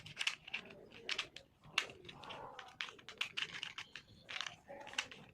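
Toy truck parts clicking and tapping irregularly as they are handled and fitted together, with a quick run of small sharp clicks.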